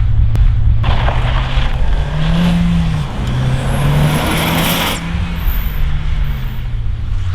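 Rally car engine pulling hard through the gears, its note climbing and dropping back at each shift. A loud rushing hiss rides over it for a few seconds in the middle.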